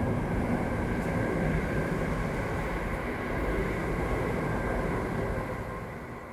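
c2c electric passenger train passing: a steady rumble of wheels on rail with faint steady whining tones. It swells, then fades away near the end.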